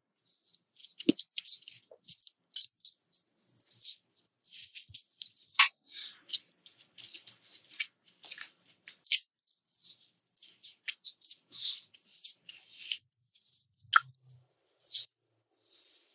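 A person chewing food close to the microphone: a dense, irregular run of small crunchy and wet clicks and crackles, with a few sharper bites standing out.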